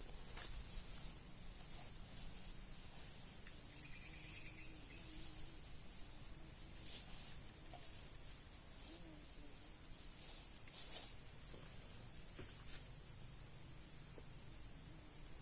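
Steady high-pitched insect chorus, crickets trilling without a break, with a few faint clicks.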